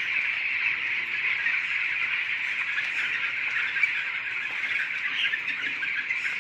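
The continuous din of a large flock of chickens in a poultry shed: many birds cheeping and calling at once, a steady high-pitched chatter with no single call standing out.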